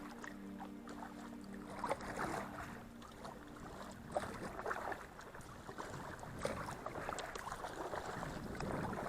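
Kayak paddle strokes splashing in river water at an irregular pace, with water washing along the hull. Soft background music fades out in the first second or so.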